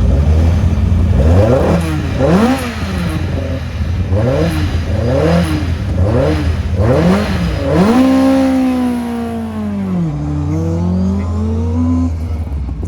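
Rally car engine revving in short throttle blips, about one a second, over a steady low rumble; near the end it settles into a long held note that sags and then climbs again as the car pulls away.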